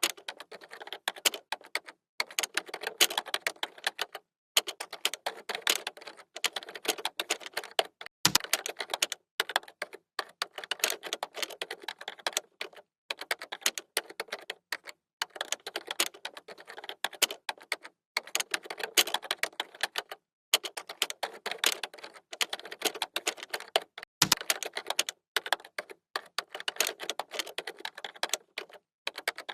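Computer keyboard typed rapidly, a fast run of key clicks in bursts with short pauses between them, and two heavier key strikes, one about eight seconds in and one near twenty-four seconds.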